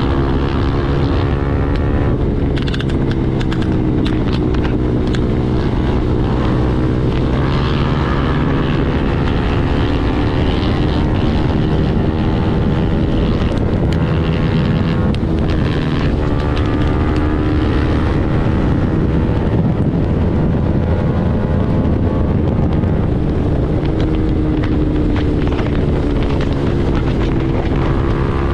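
KTM Duke 390's single-cylinder engine running steadily at highway speed through an Arrow full-system exhaust, its pitch drifting slowly up and down as the speed changes, with wind noise on the microphone.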